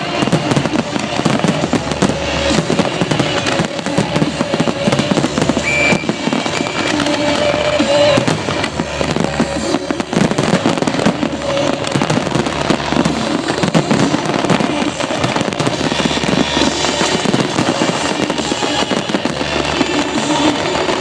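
A large professional fireworks display firing a dense, continuous barrage of bangs and crackling bursts. Show music plays underneath.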